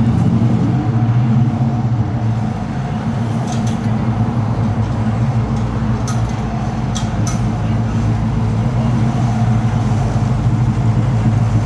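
A car engine idling steadily with a low, even rumble, with a few brief light clicks over it.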